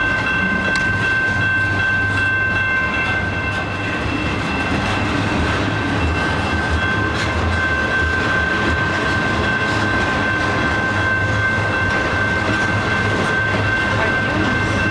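Train rolling by at close range: a steady low rumble of wheels on rail, with a sustained high metallic squeal made of several tones held at once. The lowest of those tones drops out about three seconds in.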